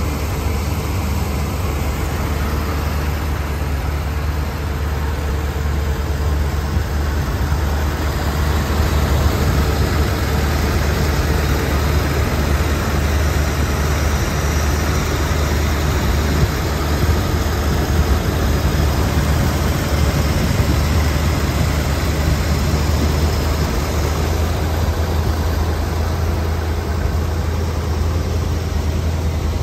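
1982 Corvette's Cross-Fire Injection 350 V8 idling steadily.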